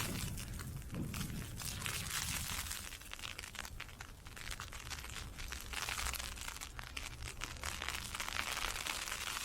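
Ice pellets hitting an umbrella: a dense, continuous crackle of tiny ticks that swells and eases with the gusts.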